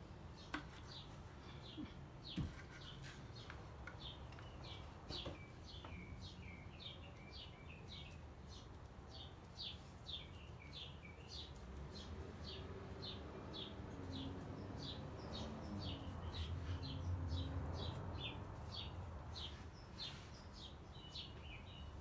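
A small bird chirping over and over, short falling chirps at about two a second. A faint low rumble swells briefly past the middle.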